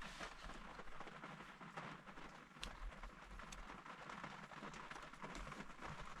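Rain falling: a faint, steady hiss of rain with a few scattered light ticks of drops.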